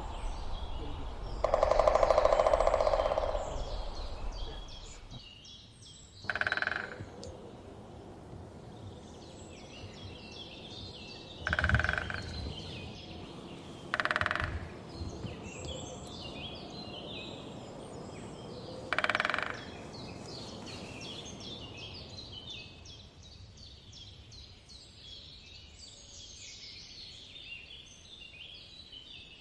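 Woodpecker drumming in four short rolls spaced several seconds apart, over steady chirping of small birds. A longer, louder rattle comes about two seconds in.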